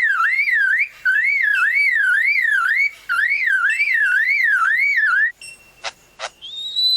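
Superb lyrebird imitating a car alarm: a loud whistled warble sweeping up and down about two and a half times a second, in phrases broken by short pauses, until about five seconds in. After it come two sharp clicks and a whistle that rises and then holds steady near the end.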